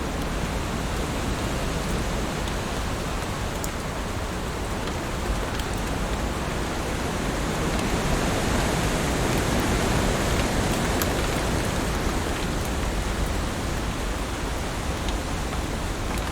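Heavy rain falling steadily on leaves, a dense even hiss that swells slightly about halfway through, with scattered single drops ticking.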